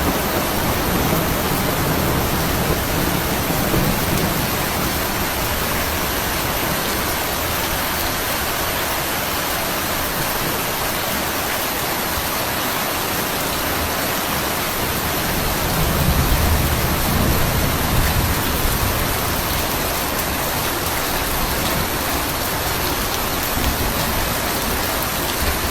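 Heavy storm rain pouring, a dense steady hiss, with a deeper rumble swelling up about two-thirds of the way through.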